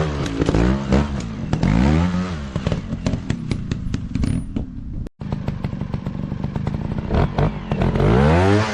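Dirt bike engine revving in repeated bursts, its pitch rising and falling again and again, with some clattering. The sound cuts out for an instant about halfway through.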